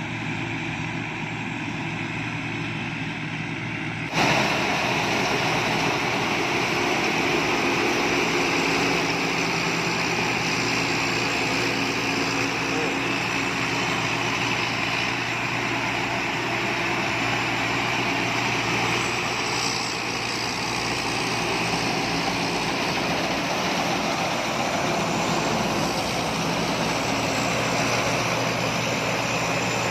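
Rice combine harvester running steadily, its engine hum under the rushing noise of the cutting and threshing machinery; the sound steps up abruptly about four seconds in and stays steady after.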